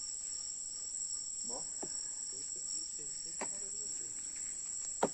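Steady high-pitched insect trilling, with faint voices in the middle and a sharp click near the end.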